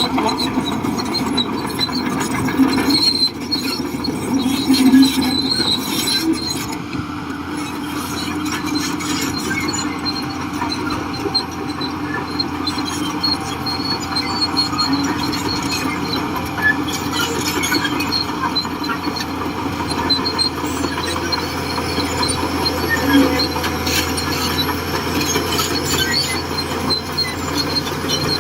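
Shantui DH17C2 crawler bulldozer working, its engine running steadily under a high squeal from the steel tracks that comes and goes.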